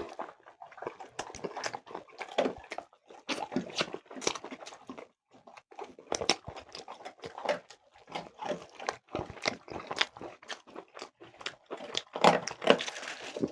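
Close-miked chewing and biting of food, with irregular crunches and wet clicks several times a second.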